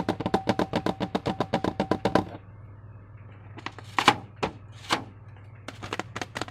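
Slime being worked by hand, making a fast, even run of sharp wet clicks, about nine a second, for roughly the first two seconds, then a few single clicks near the end.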